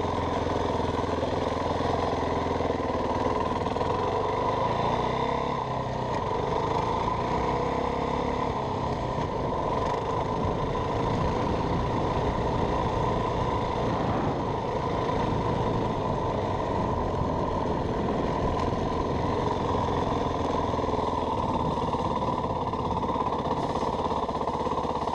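Yamaha WR450F dirt bike's 450 cc single-cylinder four-stroke engine running steadily while the bike is ridden.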